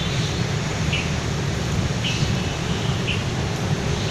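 Birds chirping in short high calls, about once a second, over a steady low rumble.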